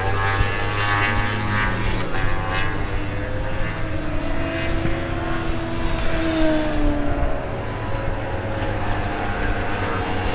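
Superbike engines running hard on the circuit, several engine notes overlapping, their pitch rising and falling.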